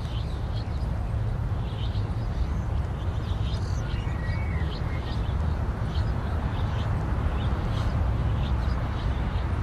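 Outdoor ambience: short, high chirps of small birds scattered irregularly over a steady low rumble.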